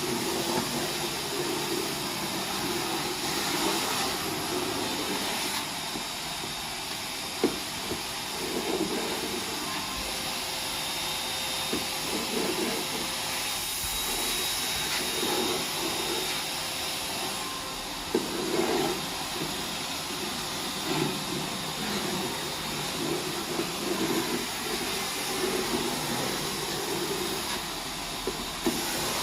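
Vacuum cleaner running steadily as it is worked over a surface, with uneven rustling and a few sharp clicks where debris is sucked up.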